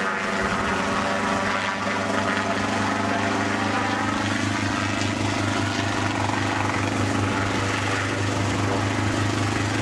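Helicopter engine and rotor running steadily, with a fast, even chop underneath.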